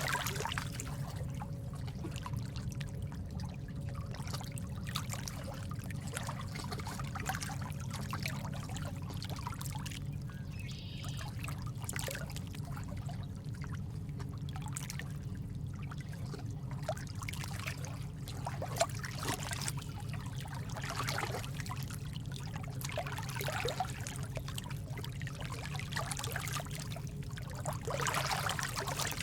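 Steady trickling, splashing water like a small stream, running evenly without a break.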